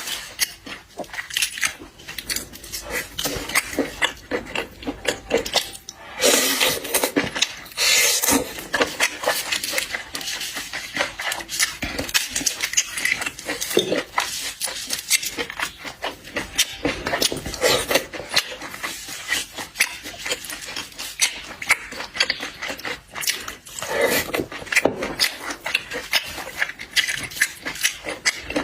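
Mouth sounds of someone eating seafood: chewing, slurping and sucking in quick, irregular bursts, mixed with clicks and clinks of dishes and cutlery.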